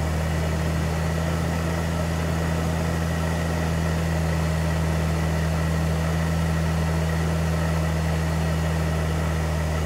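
Supercharged Nissan VQ40DE 4.0-litre V6 running at a steady high idle: an even low hum with a faint steady high whine over it.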